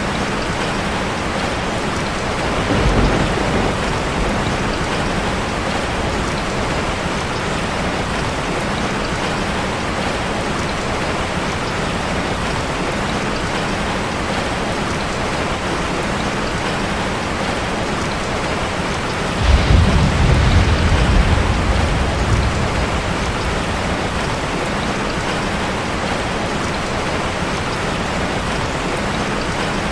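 Steady heavy rain drumming on a metal roof, with two low rumbles of thunder: a short one about three seconds in and a longer, louder roll about twenty seconds in.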